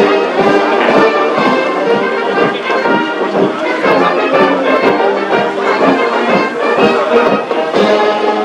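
Military brass band playing, with trombones and other brass carrying the tune over a beat.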